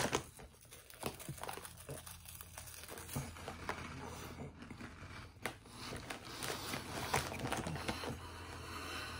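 Faint crunching and crinkling of puffed corn snack balls in a mouth crammed full of them, with muffled mumbling and scattered small clicks.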